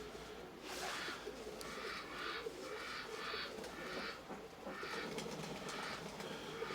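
Domestic pigeons cooing, with a soft rustling hiss that comes and goes about once a second.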